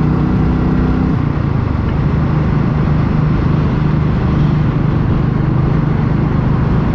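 Motorcycle engine running steadily at road speed, with wind and road rush on the rider's microphone; the engine note changes about a second in, as if the throttle is eased.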